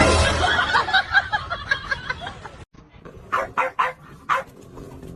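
Pet animal calls: a dense jumble of calls, then after a sudden break about five short, sharp calls.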